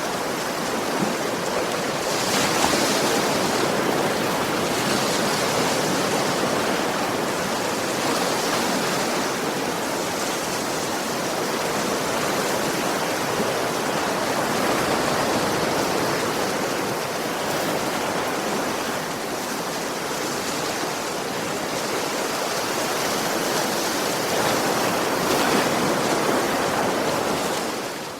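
Sea waves washing onto a beach: a steady wash of surf that swells a little about two seconds in and again near the end.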